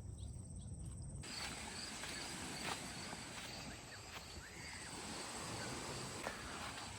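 Faint outdoor ambience with a thin, steady high insect drone, a few soft clicks and one brief chirp; the background shifts about a second in.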